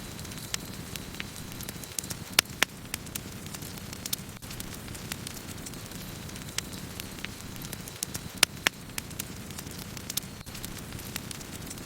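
Wood fire burning: a steady low rushing of flames with irregular sharp crackles and pops of burning wood, a few louder pops standing out.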